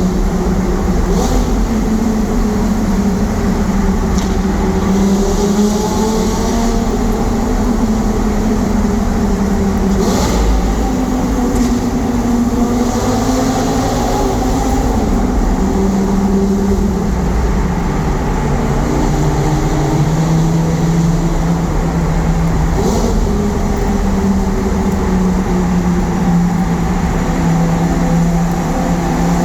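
Lamborghini Gallardo Superleggera's V10 engine running at steady cruising speed, its pitch drifting slowly up and down, with a constant low road rumble beneath.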